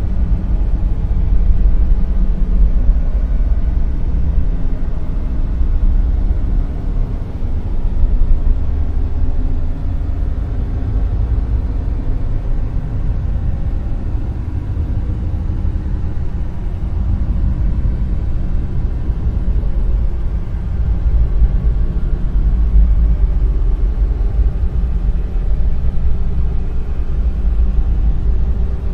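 Dark noise: a steady, deep wash of noise, heaviest in the low end, that swells and eases slowly.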